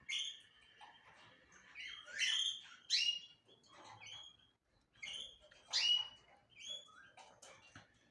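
Small cage birds chirping: a string of short, sharp, high calls at irregular intervals, the loudest about two, three and six seconds in.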